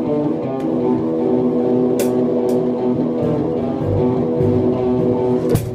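Guitar playing sustained notes and chords with bass guitar underneath, with a cymbal hit about two seconds in and drum hits starting near the end.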